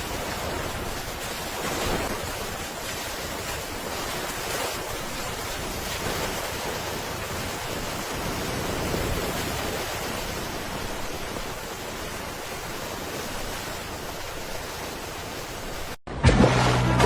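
Steady rushing noise of water, like surf, with no distinct events. About a second before the end it cuts off abruptly and loud music with steady low notes begins.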